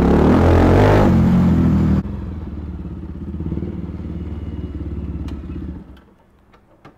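Motorcycle engine with the dB killer taken out of its exhaust, running loud at low riding speed, then after a sudden change idling more quietly, and falling away near the end.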